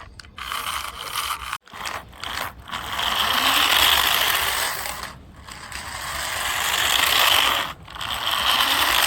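Remote-control toy car's small electric motor and gearbox whirring in several runs that swell and fade, with short stops about one and a half, five and eight seconds in.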